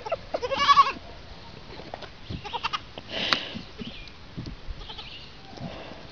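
An animal bleating: one short, quavering call near the start, followed by scattered small knocks and a brief hiss-like burst about three seconds in.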